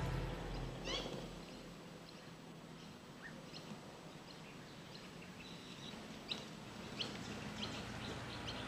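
Scattered short bird chirps over a faint outdoor hiss, after background music fades out in the first second.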